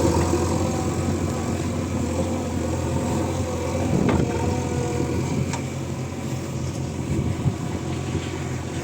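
Heavy diesel engine running steadily at a low, even speed, with two short clanks about four and five and a half seconds in.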